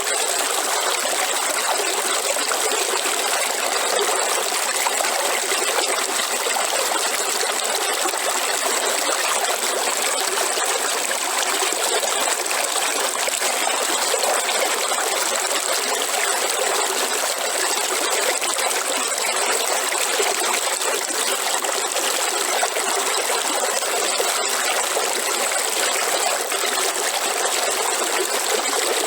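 Waterfall: water falling and splashing steadily, with no change.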